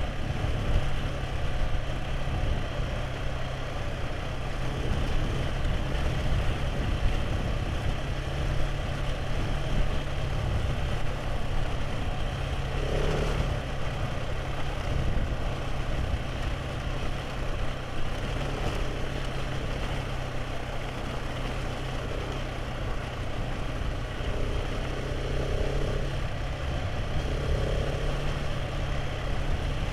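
Motorcycle engine running steadily while riding an unpaved road, with a constant low rumble and wind and road noise.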